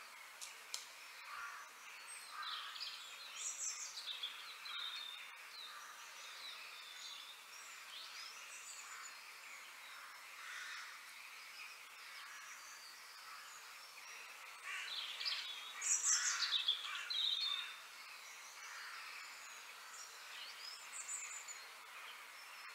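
Birds chirping and calling over a steady outdoor hiss, with a louder burst of quick chirps about two-thirds of the way through.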